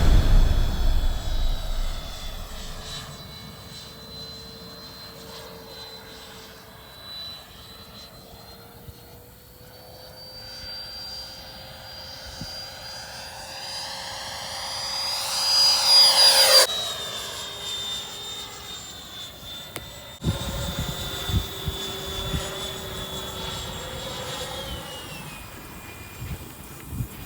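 High-pitched whine of a Freewing F-22 Raptor RC jet's 90 mm electric ducted fan in flight. A little past halfway it swells and rises in pitch as the jet passes close, then the pitch drops sharply as it goes by; a fainter whine carries on and falls in pitch near the end.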